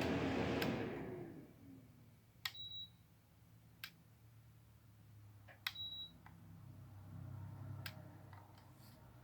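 Portable air conditioner shutting off: its fan noise dies away over the first second and a half, with a falling hum as the fan spins down. After that come a few light clicks and two short high beeps from the unit's controls, about three seconds apart.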